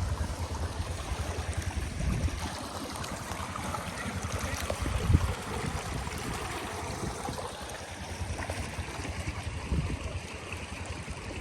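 Floodwater rushing steadily through a drainage pipe and channel after heavy rain.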